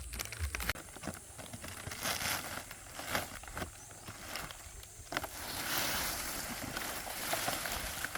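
Dry palm leaves rustling and crackling as they are handled, with irregular sharp crackles at first and a denser, continuous rustle from about halfway through.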